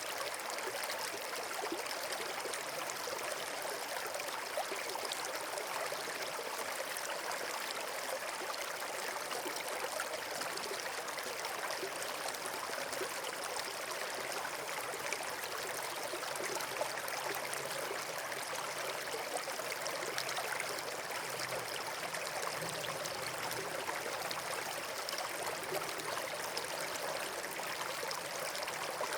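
Steady rush of running water, like a stream or small waterfall, even and unbroken throughout.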